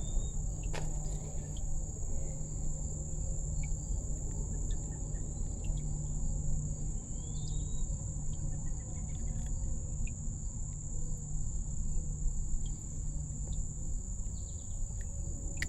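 Insects droning steadily at a high pitch over a low outdoor rumble, with scattered faint clicks.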